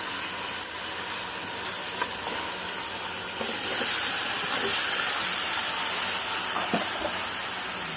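Chicken frying in hot oil with fried ginger and garlic in a pan: a steady sizzling hiss that grows louder about three and a half seconds in.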